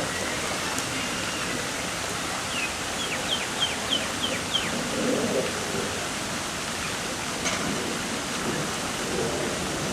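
Steady rushing noise like falling water, with a small bird calling a quick run of six short, high, falling notes about three seconds in.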